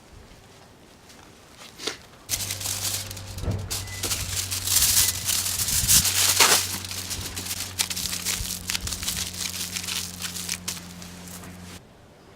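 Wrapping material being crumpled and crinkled by hand, a dense run of small crackles lasting about nine seconds, over a steady low hum. Both start abruptly about two seconds in and stop abruptly near the end.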